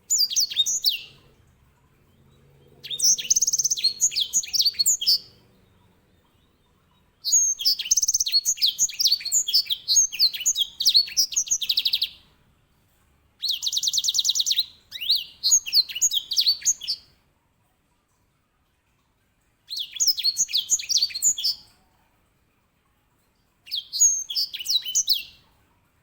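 Grey singing finch (edel sanger) singing loud, quick warbling phrases in six separate bursts with short pauses between them, the longest lasting about five seconds; one phrase includes a fast, even rolling trill.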